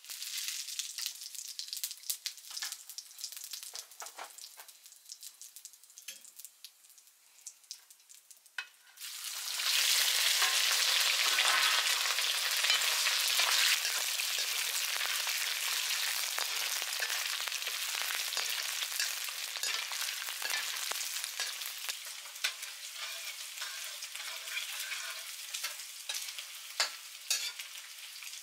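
Food frying in a pan, with a crackling sizzle and occasional clicks of stirring. About nine seconds in the sizzle jumps suddenly much louder, then slowly eases off.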